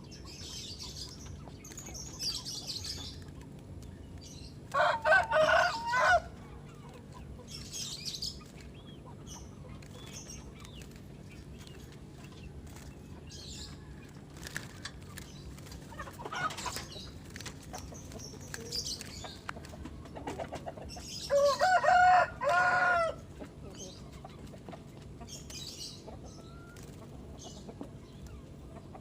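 A rooster crows twice, about five seconds in and again about twenty-one seconds in, each crow lasting a second or two. Short, high-pitched chirps from small birds come and go in between.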